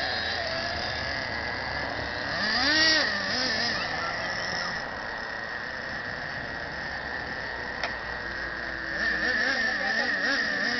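Traxxas radio-controlled monster truck running, with a steady high whine and the motor's pitch rising and falling as the throttle is worked, twice. A single sharp click comes near the end.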